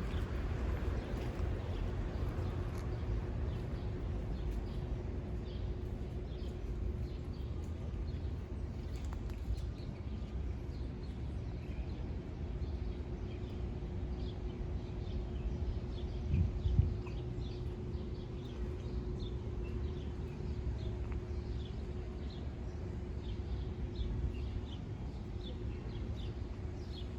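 Small birds chirping over and over in short, high notes over a low, steady rumble and a faint steady hum.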